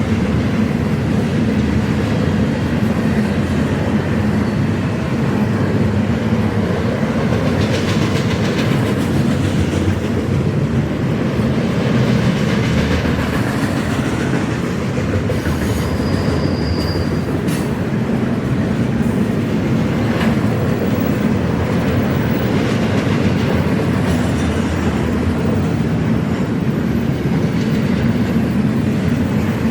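Intermodal freight train cars rolling past at steady speed, a continuous rumble with the clickety-clack of wheels over the rail joints. About halfway through comes a brief high-pitched tone.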